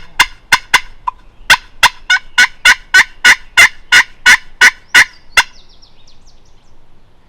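A long run of loud, sharp turkey yelps, about three a second, stopping abruptly about five and a half seconds in.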